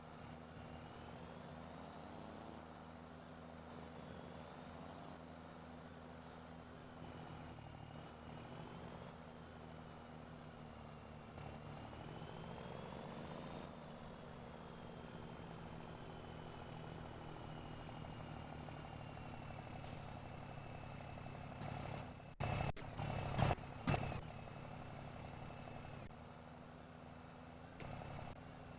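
Straight-piped Scania Super 540 truck engine running steadily, with a whistle that rises and falls in pitch. About two-thirds of the way through comes a short hiss of air, then a few loud knocks.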